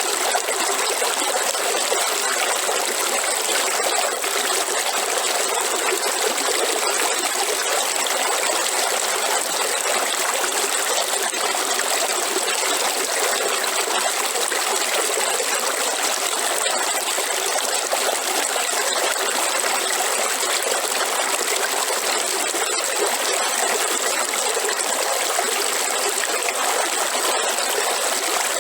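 River water flowing and trickling in a steady, even rush, with a thin high tone held above it.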